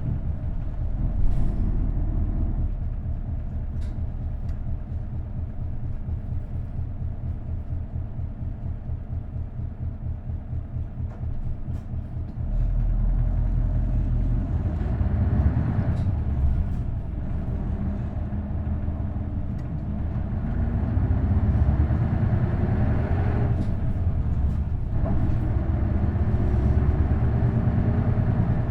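Isuzu Erga bus's V8 diesel engine idling with a steady pulse, then about halfway it suddenly gets louder as it takes load and the bus pulls away. The revs rise, drop briefly and rise again several times as the five-speed manual gearbox is shifted up.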